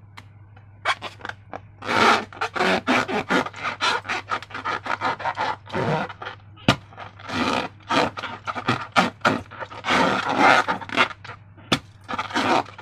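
Slime and rubber balloons handled and squeezed: a dense run of irregular squishing, crackling and rubbery scraping noises, each short, one after another, over a faint steady hum.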